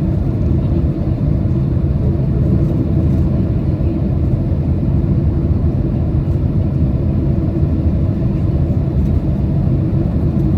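Boeing 767 cabin noise on approach: a steady low rumble of engines and airflow heard from inside the cabin.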